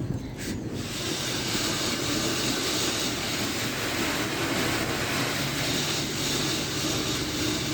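Jim Coleman Water Wizard 1.0 automatic car wash running: a steady rushing hiss cuts in just under a second in and holds. A low machine hum joins it near the end.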